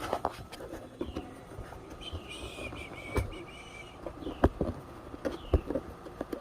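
Scattered knocks and clicks of equipment being handled and repositioned, the loudest three about three, four and a half and five and a half seconds in. A brief wavering high chirp sounds about two to three seconds in, and short faint chirps recur throughout.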